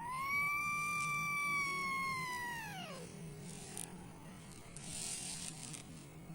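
A kitten giving one long, high meow, held steady for about two seconds, then falling in pitch and dying away about three seconds in. It is crying to be let out of its cage.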